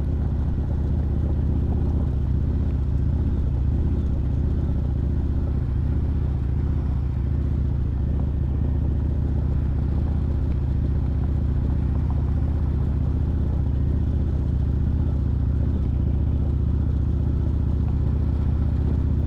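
Kawasaki Vulcan 1600 Nomad's V-twin engine running steadily at low speed while the bike is ridden, a low, even rumble with no revving.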